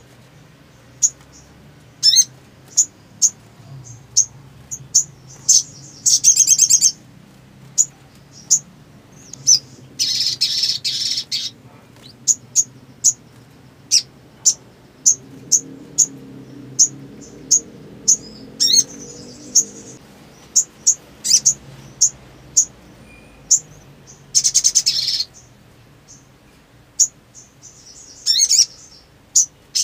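Sunbird singing: a long run of short, sharp, high chirps, about one or two a second, broken by several rapid trills about a second long.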